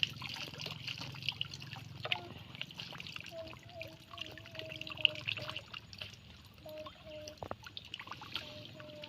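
Water trickling and dribbling, with many small splashes. A low hum fades out after the first few seconds, and short, steady whistle-like tones come and go several times in the second half.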